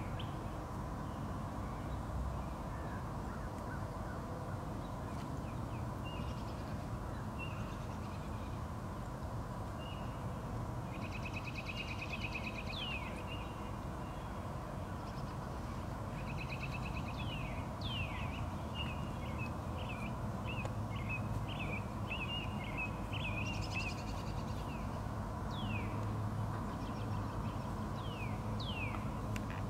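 Wild birds chirping and calling, with short falling notes and quick trills that are busiest in the middle stretch. Under them runs a steady low background rumble.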